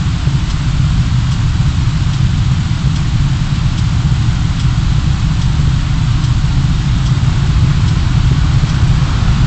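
Steady low rumble of a car driving, the engine and road noise picked up by a dashcam inside the cabin.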